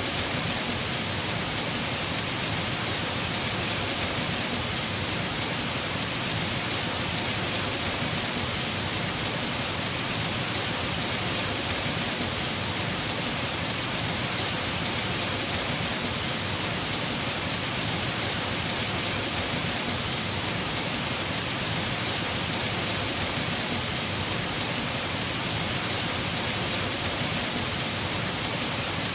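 Heavy rain falling on a house roof: a steady, even hiss of drops that never lets up.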